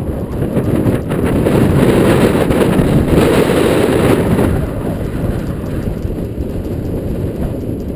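Strong wind buffeting the microphone, mixed with the rumble and chatter of mountain bike tyres on a dirt trail. The gusting swells louder a couple of seconds in and eases off after about four seconds.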